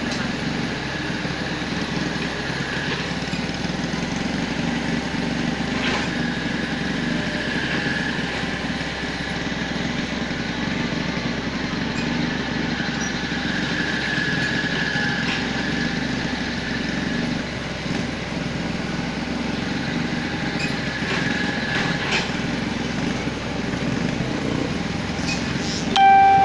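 A steady mechanical rumble and hiss with a faint wavering whine, ending in a short pitched beep.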